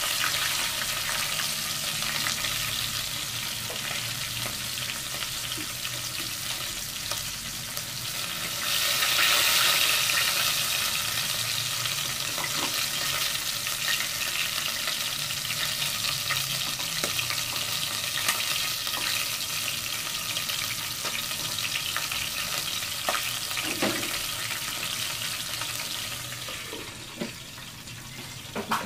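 Chicken pieces frying in hot oil in a pan: a steady sizzle that swells louder for a couple of seconds about nine seconds in, with a few light clinks of tongs against the pan. Near the end a lid clinks onto the pan and the sizzle turns quieter.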